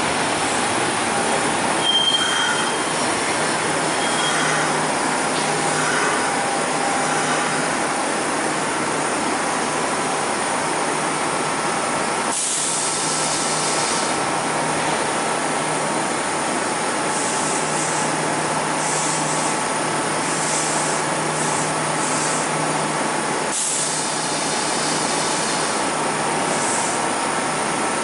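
Kintetsu electric train moving slowly past a station platform: steady running noise and motor hum, with thin squealing tones from the wheels. There is a brief hiss about halfway through and again near the end.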